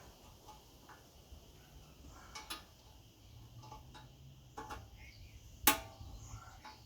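Mostly quiet, with scattered faint clicks and one sharp, louder click about two-thirds of the way through, over a faint low hum.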